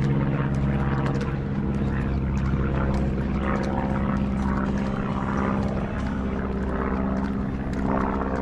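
A car engine running at a steady speed, with a constant even drone.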